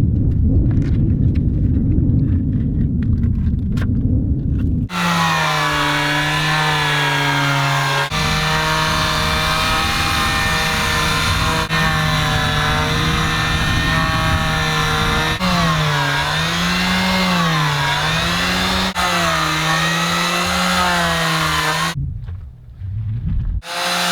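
Electric sander running against a boat hull: a steady machine whine whose pitch dips and wavers as it is pressed to the surface, after a few seconds of low rumbling. It cuts out briefly near the end.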